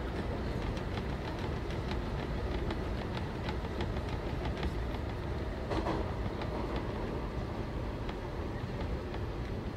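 Marunouchi Line 500-series subway car running between stations, heard from inside the car: a steady low rumble with frequent short clicks from the wheels and running gear.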